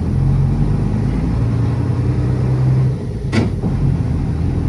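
City bus engine running while the bus is under way, heard from inside the cabin. The steady low engine hum drops away about three seconds in, a short sharp knock follows, and the hum comes back near the end.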